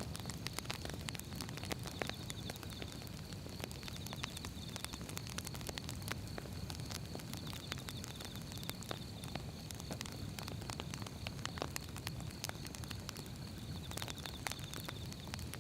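Firewood burning: dense, irregular crackles and pops from the logs over a low, steady rush of flame.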